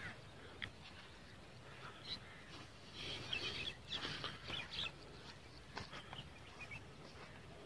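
Birds calling: a few scattered chirps, then a busier run of short calls about three to five seconds in, over a faint steady background.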